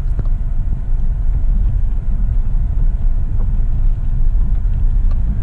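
Steady loud low rumble with a few faint clicks.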